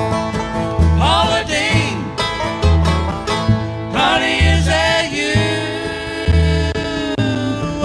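Live bluegrass band playing an instrumental stretch of a country-rock song, with banjo and guitar over a steady low bass beat and a bending, held lead melody.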